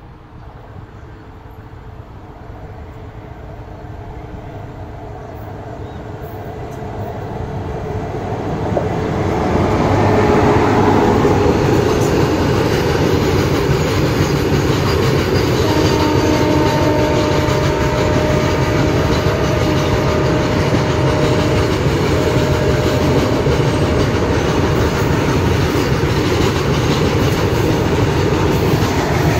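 Indian Railways WAG-9H electric locomotive approaching and passing at speed, followed by a long rake of BOXN open freight wagons rolling past close by. The rumble of wheels on the rails grows steadily louder for about ten seconds, then holds loud and even as the wagons go by.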